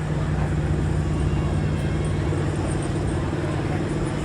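Stock gas pickup truck engine running hard at a steady pitch under load, pulling a weight-transfer sled.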